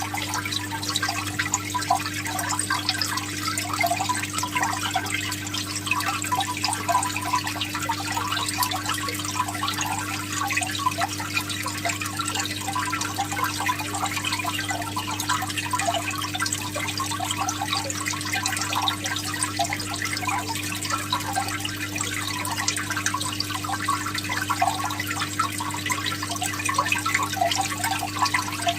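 Water trickling and splashing continuously over a steady low hum.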